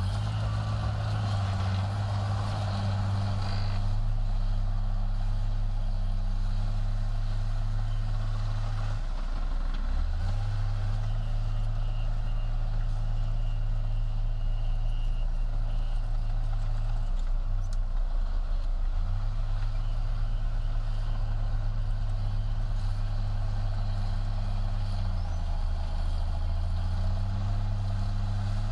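Heavy diesel engine of earthmoving machinery working steadily. Its pitch drops and comes back up three times, as the load or throttle changes.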